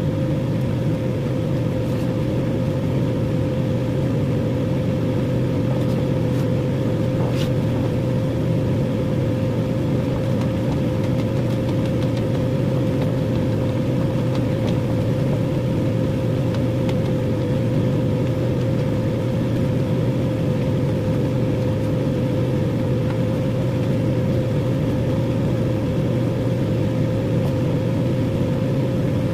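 A steady machine hum holding one constant tone.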